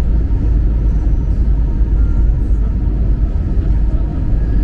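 Steady low rumble of engine and airflow noise inside the cabin of an Airbus A321 on its descent and landing.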